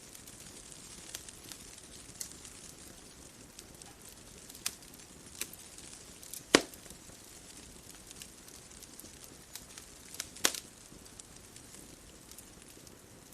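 Wood fire crackling: sharp irregular pops and snaps over a soft steady hiss, with two louder pops at about six and a half and ten and a half seconds in.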